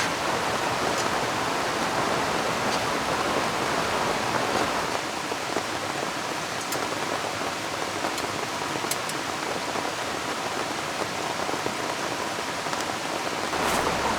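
Steady rain falling, mixed with the rush of a flowing river, with a few sharper drop ticks now and then.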